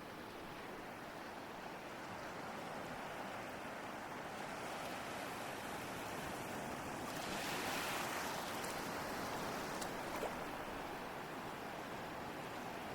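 Ocean waves washing ashore: a steady surf hiss that swells as a wave breaks about halfway through, then eases back.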